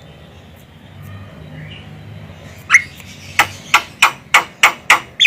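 Javan myna (jalak kebo) giving a run of eight harsh, sharp calls, about three a second, starting nearly three seconds in after a quiet stretch.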